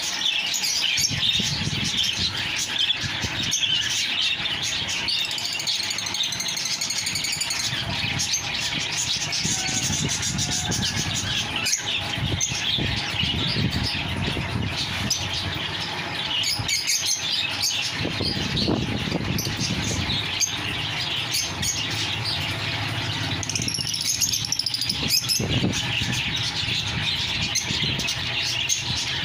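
Many caged small birds chirping and twittering all at once, a dense, unbroken chatter, with a low rumble underneath.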